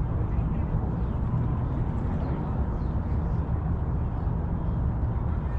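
Park ambience dominated by steady wind rumble buffeting the microphone, with faint high bird chirps over it.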